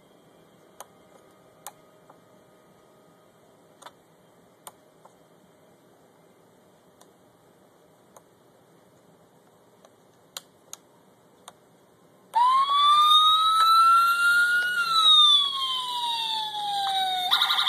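Faint clicks and taps as the toy police car is handled while its button is searched for. About twelve seconds in, the 1:18 scale model police car's electronic siren comes on loudly through its small speaker: a wail that rises and then slowly falls, switching to a faster pattern near the end.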